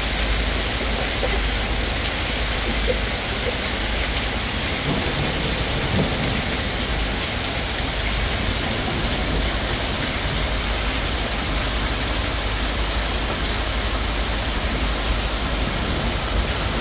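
Heavy rain and hail pouring down: a steady, dense hiss with a low rumble underneath and a few sharper hits in the first several seconds.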